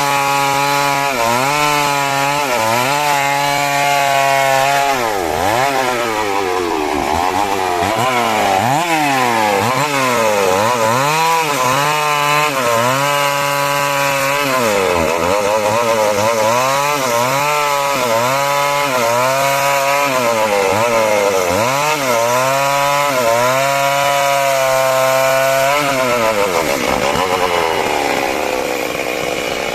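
Two-stroke chainsaw cutting timber, its engine pitch repeatedly dipping as the chain bites into the wood and climbing back as it frees, every second or two. Near the end the engine drops back toward idle.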